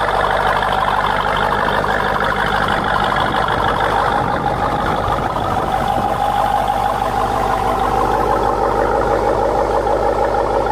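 Vehicle engine running steadily at idle, close by, with a steady whine.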